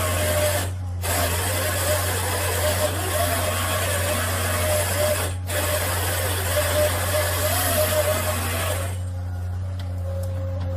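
Machinery running: a steady low hum under a dense mechanical rushing noise. The noise breaks off twice for a moment and falls away near the end, leaving the hum.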